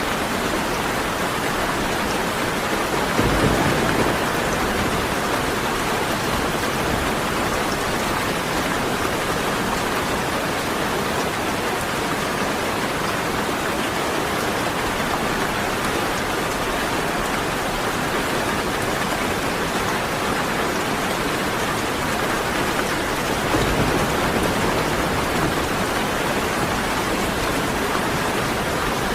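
Steady heavy rain falling, with two short low rumbles of thunder, one about three seconds in and another about twenty-three seconds in.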